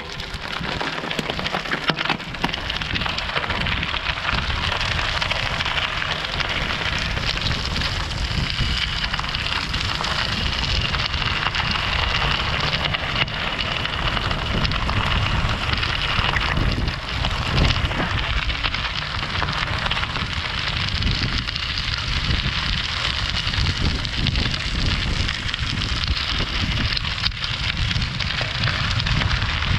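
Bicycle tyres rolling steadily over a gravel road: a continuous dense crunching crackle of stones under the tyres, with a low rumble beneath it. A faint high whine rises in the middle and fades again.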